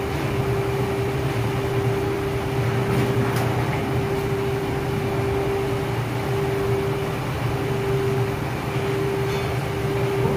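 Crane engine and hoist running steadily with a steady whine as the sling load is lowered slowly.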